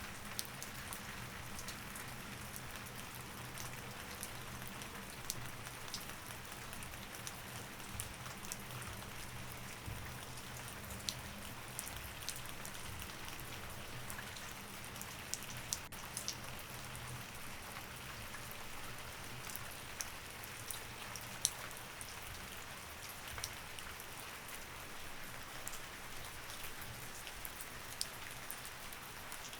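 Steady rain with many individual drops ticking sharply on a surface, over a faint low steady hum.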